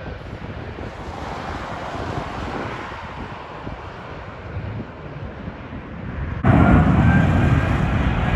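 Wind buffeting the phone's microphone. About six seconds in, the sound jumps abruptly to a loud jet airliner's engines, a low rumble with a steady high whine over it.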